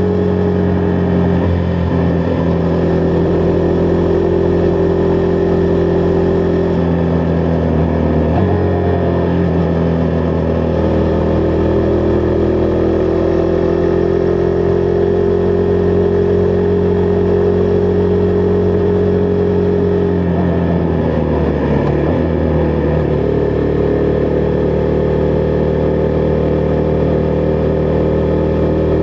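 Husqvarna Vitpilen 401's single-cylinder engine running steadily under way at cruising speed. Its note dips briefly about a third of the way in and again about three quarters of the way through, then picks back up.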